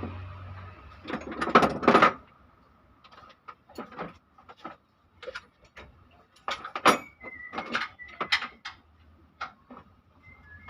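Metal tools and engine parts clinking and knocking in irregular strikes during an engine teardown, a few of them ringing briefly; the loudest come about 1.5–2 seconds in and about 7 seconds in.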